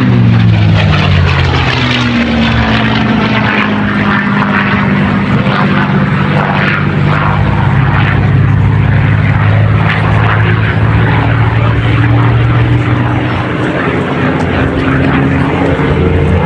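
Propeller-driven aircraft flying a display pass. Its engine drone drops in pitch over the first couple of seconds as it goes by, holds steady, then rises again near the end as it comes round.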